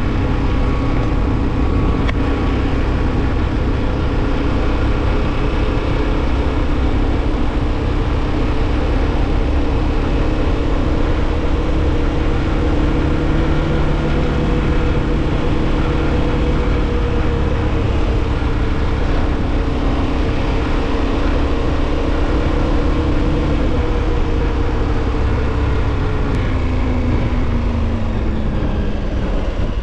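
KTM 1290's V-twin engine running steadily under way over a constant rush of wind and road noise. Its note drifts slowly and falls over the last few seconds as the bike slows.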